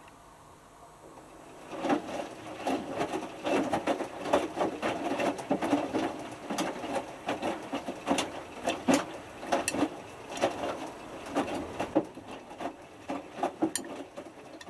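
Hotpoint Futura HF8B593 washing machine drum turning during the main wash of a whites cycle, a small load of t-shirts swishing and flopping inside. It starts after a pause about two seconds in and stops right at the end, one tumble in the wash's turn-and-pause rhythm.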